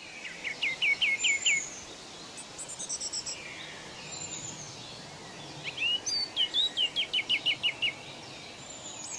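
Birds calling over a steady outdoor hiss: a quick run of five short, falling whistled notes about a second in, then a longer run of about ten such notes near the end, with higher chirps in between.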